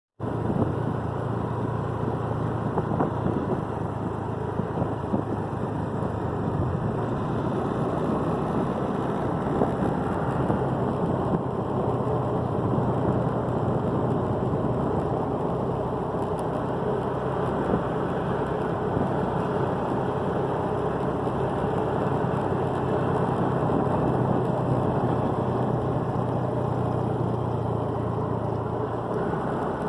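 Motorcycle engine running steadily while being ridden, with a constant low drone and road noise that change little throughout.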